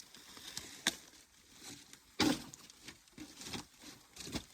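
Irregular crunches and knocks of footsteps and junk being moved over dump debris, with the loudest knock about two seconds in.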